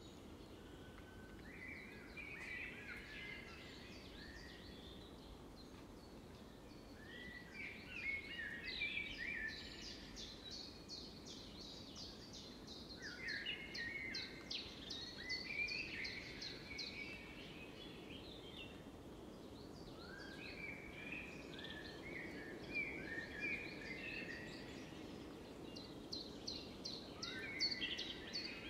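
Birdsong: birds chirping in short phrases, with fast high trills about ten seconds in and again near the end, over a faint steady background hiss.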